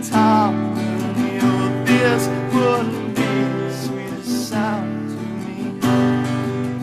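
Music: a strummed acoustic guitar song with a few gliding melody notes over the chords.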